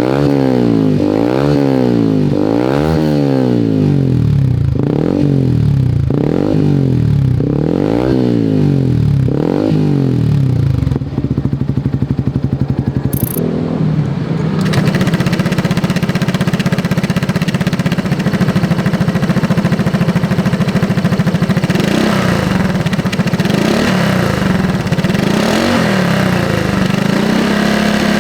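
A sport motorcycle's engine revved repeatedly, about once a second, through a 3Tech EvoX STD aftermarket exhaust with the DB killer removed. After a short break, a 110–160cc automatic scooter idles through a 3Tech EvoX ADB valved exhaust with its valve closed, blipped three times near the end.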